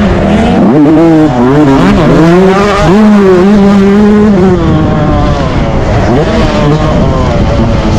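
Yamaha YZ125 two-stroke motocross engine run hard, its pitch climbing and dropping several times as the throttle is worked.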